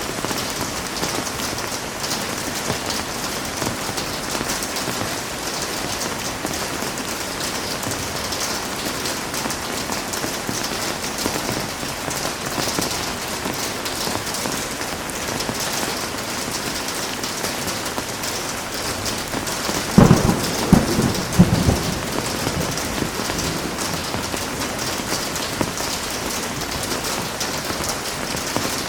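Heavy rain falling steadily. About two-thirds of the way through comes a close thunderclap: a few sharp cracks over about a second and a half, the loudest sound here.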